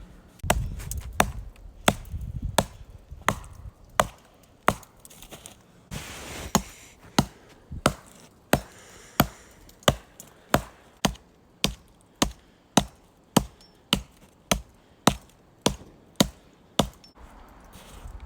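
Small hand axe chopping into the trunk of a small dead, beetle-killed tree: a steady run of sharp blows, about three every two seconds.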